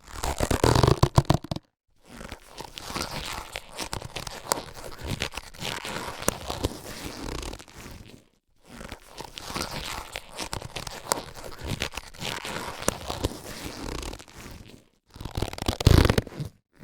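Latex surgical gloves being handled, rubbed and stretched: a dense crackle of small clicks in bursts, broken by short silences, louder about a second in and near the end.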